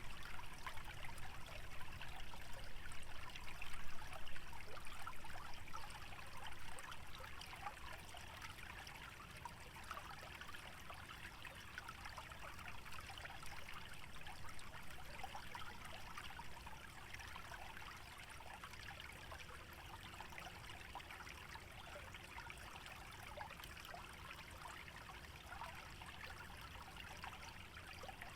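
Small wetland stream trickling and splashing steadily. It is a little louder for the first few seconds, then settles to an even trickle.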